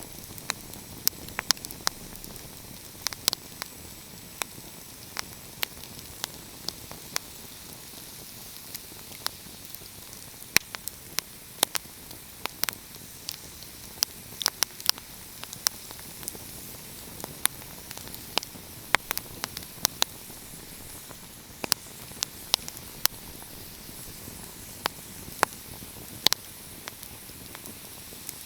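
Wood fire crackling in a fireplace: irregular sharp pops and snaps, several a second at times, over a steady hiss.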